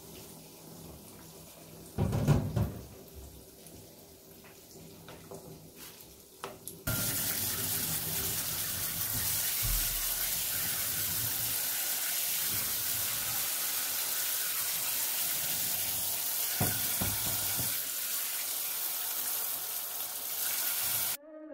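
Faint bubbling of tapioca pearls boiling in a glass pot, with one brief louder sound about two seconds in. About a third of the way through, tap water starts running steadily onto cooked tapioca pearls in a stainless steel perforated colander as a hand rinses them; it stops abruptly near the end.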